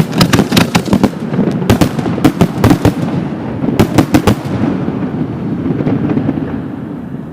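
Fireworks salute: shells bursting in rapid succession as a dense string of sharp bangs. The bangs stop about four and a half seconds in, leaving a low rumble that slowly fades.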